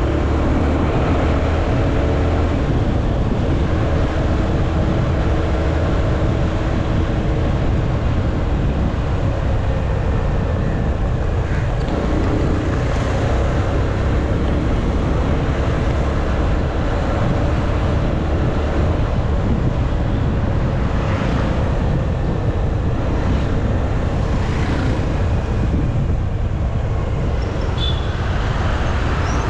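Motorcycle engine running under way while riding, with wind and road noise on an action-camera microphone; the engine note shifts in pitch during the first few seconds.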